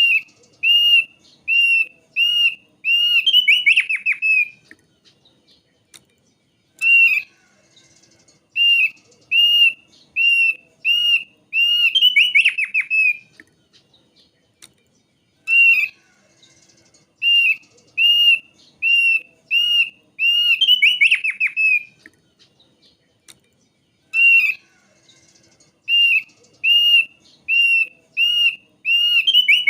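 Thick-billed heleia (opior paruh tebal) singing: a phrase of about seven clear, evenly spaced whistled notes that ends in a quick trill, repeated four times with short pauses between.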